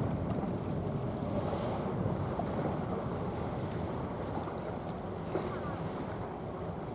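Steady low rumble of a small general cargo ship's engine heard across the water, mixed with wind noise on the microphone.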